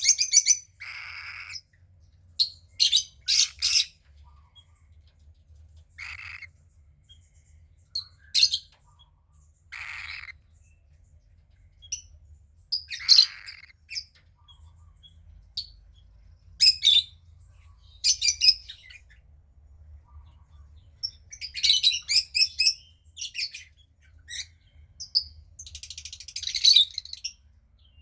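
Young cockatiel chick calling in short, raspy high chirps, in irregular clusters every second or few, with a few lower, hoarser calls among them.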